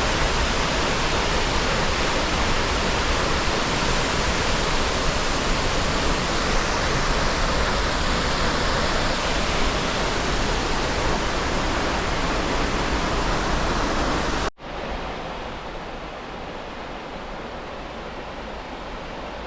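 Waterfall: a loud, steady rush of falling water. It breaks off abruptly near the end into a quieter, softer rush of water.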